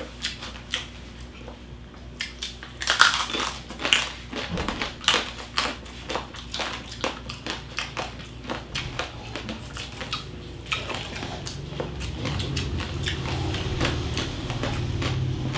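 Crunching and chewing of crispy roast-pig (lechon) skin in the mouth, a rapid irregular run of sharp crackles heard close up. A low steady hum builds under the chewing over the last few seconds.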